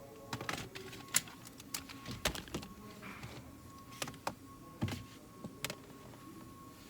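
Irregular metallic clicks and knocks of hand tools, bolts and nuts being handled while fitting a steering column assembly, over a faint steady high hum.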